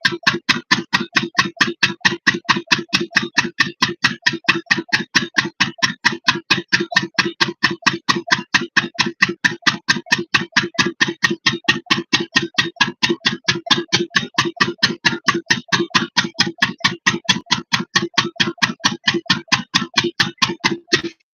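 8 hp single-cylinder diesel engine running a water pump at a steady speed, its firing beats coming evenly at about four to five a second. The sound cuts off suddenly near the end.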